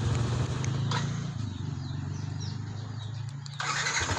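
Motorcycle engine idling with an even pulsing beat that drops slightly in pitch about a second and a half in. A broad hiss comes in near the end.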